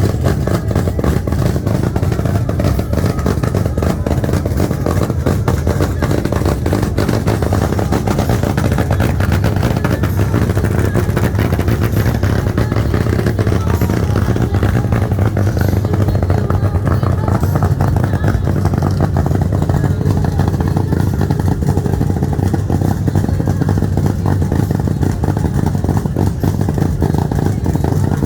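Loud vehicle engine idling steadily close by, with an even, unbroken run and no revving.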